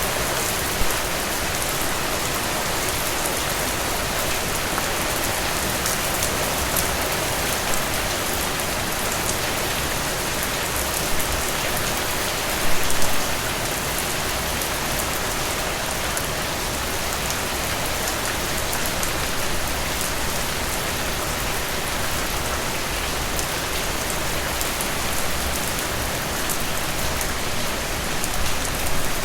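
Steady rain falling, an even hiss with a few brief louder moments, the loudest about halfway through.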